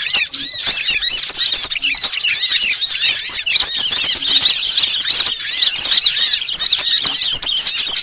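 Bird-lure recording mixing the calls of sunbirds, sooty-headed bulbuls and other small songbirds: a dense, continuous chatter of many overlapping high, quick chirps.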